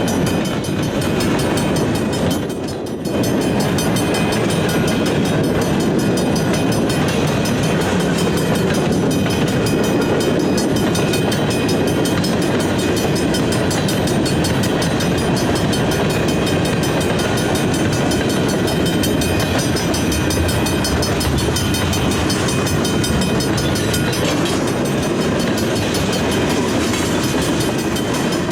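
Canadian Pacific freight train passing, a steady loud rolling noise on the rails.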